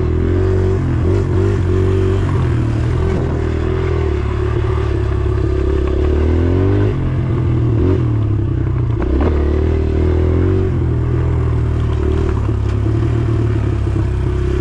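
Small single-cylinder four-stroke dirt bike engine running under way on a trail, its pitch rising and falling a few times as the throttle is worked.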